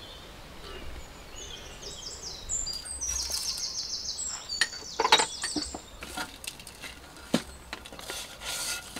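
A songbird singing a run of short high notes in the background, then a few sharp knocks, the loudest about five seconds in, and the rubbing of hands working salt into a raw duck's skin near the end.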